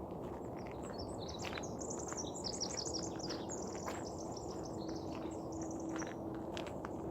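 A songbird singing one long, rapid song of high notes and trills for about five seconds, starting about a second in. Footsteps crunch on the trail throughout, over a steady low background rumble.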